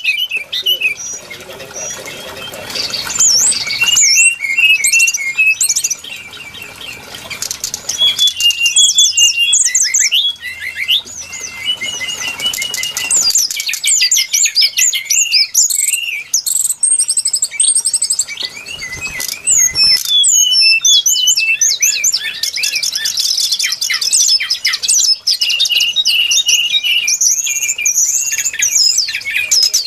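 Brown-chested jungle flycatcher song: rapid high chirps, whistled notes and trills, dense and nearly continuous, easing off briefly twice.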